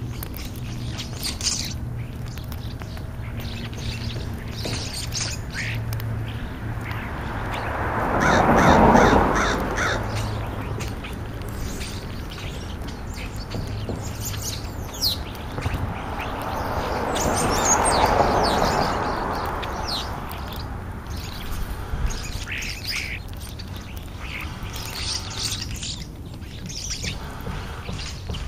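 American crows cawing and European starlings calling with short, high chirps and whistles. Twice, a rushing noise swells up and fades away over a few seconds.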